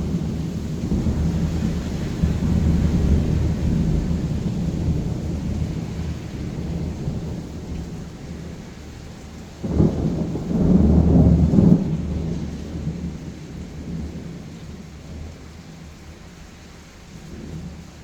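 Thunder rumbling over rain. About halfway through, a sudden thunderclap rolls on for a couple of seconds, then the rumble slowly dies away.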